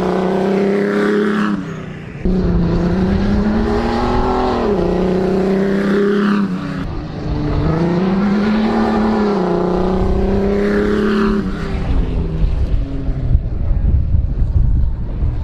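Race car engine accelerating hard and lifting off again and again, its pitch climbing and falling about four times, with a brief drop in level about two seconds in.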